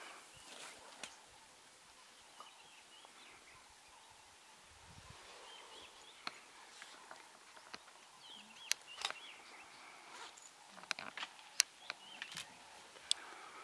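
Quiet bush ambience with faint chirping bird calls, mostly in the second half, and sharp clicks every second or two.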